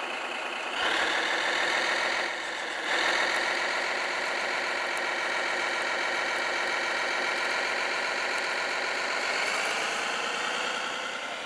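Engine sound from a Servonaut SMX sound module in a Kyosho Blizzard radio-controlled snow groomer, played through the model's small speaker. It revs up about a second in, drops back briefly, revs up again about three seconds in, then runs steadily and eases off near the end.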